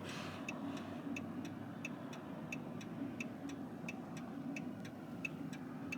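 A car's turn signal clicking steadily, about three clicks a second, over the low rumble of the car running on the road, heard from inside the cabin.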